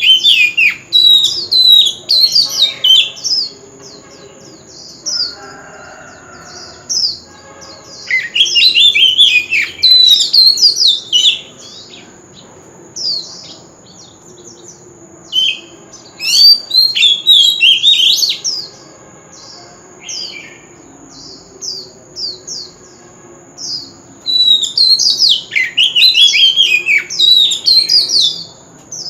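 Oriental magpie-robin singing: loud bursts of rapid, sweeping whistled phrases every several seconds, with single short notes between them. A faint steady high tone runs underneath.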